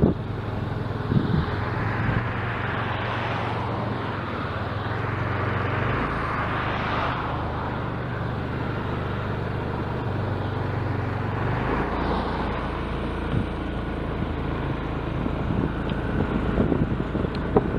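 A motor vehicle's engine running steadily while moving, with road and wind noise. The engine note steps down about six seconds in and changes again near twelve seconds.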